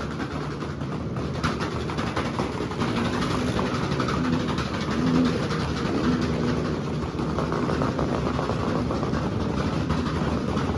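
Motorcycle engines running and revving unevenly, a steady mechanical din.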